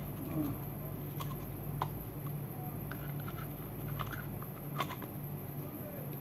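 Scattered faint clicks and taps of plastic parts being handled as a washing machine's cover is fitted back on, over a low steady hum.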